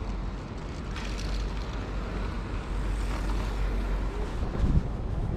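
Riding noise on an electric bike: a steady low rumble of wind on the microphone and tyres on the road, with a brief louder swell near the end.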